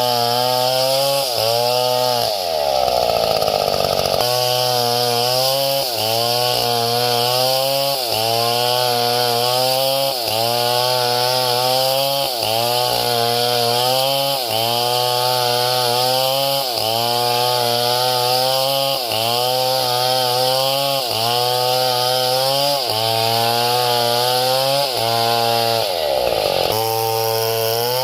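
Chainsaw engine running hard while cutting wood. Its pitch wavers about once a second as the load comes and goes, and it drops sharply in speed twice, a few seconds in and near the end.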